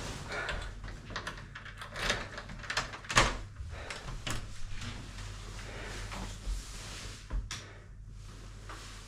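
A room door being handled: a series of latch and handle clicks and knocks, the loudest about three seconds in, with a few more further on.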